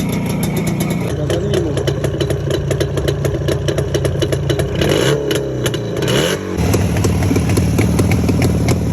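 Motorcycle engines running through their exhausts. The sound changes abruptly about a second in and again about six and a half seconds in, as from one bike to another. Between about five and six seconds in, the engine is revved up and down.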